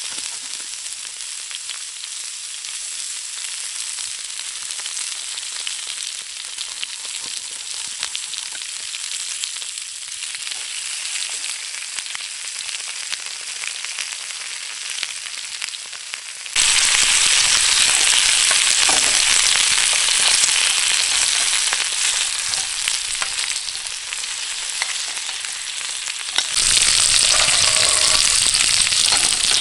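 Food sizzling and frying in a hot pan, a steady crackling hiss that turns abruptly louder and fuller about halfway through and again near the end.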